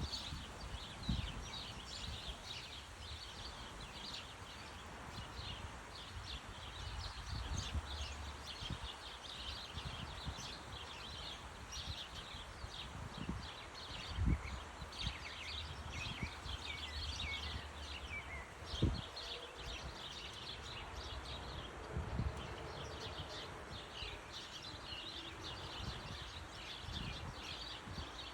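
A chorus of small birds chirping, with many short, overlapping high chirps throughout. A couple of brief low thumps stand out about fourteen and nineteen seconds in.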